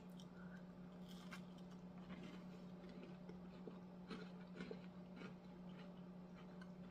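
Faint chewing of a mouthful of chocolate chip cookie with almonds, with soft crunchy clicks every so often over a low steady hum.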